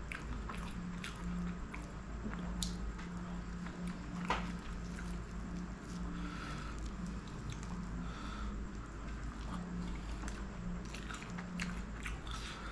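Close-miked eating: wet chewing and lip smacks of curried chicken, with squishing as curry-soaked fingers pull apart a chicken leg.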